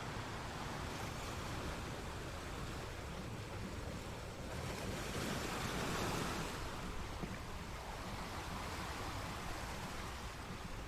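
Steady rushing noise that swells about halfway through and eases off again a couple of seconds later.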